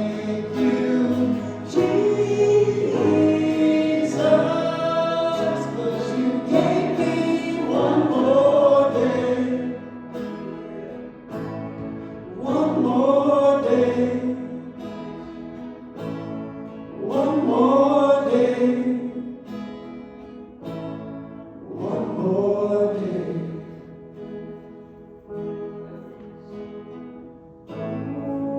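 Live gospel worship song: several voices singing together over the band, in long sung phrases that swell and fall back, growing quieter after about ten seconds in.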